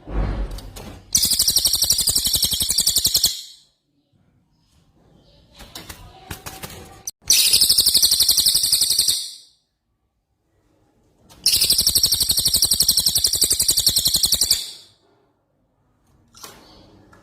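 A songbird's rapid rattling trill, the 'rol tembak' rolling phrase used to master-train songbirds, given three times in long bursts of two to three seconds each, with quieter chirps between them.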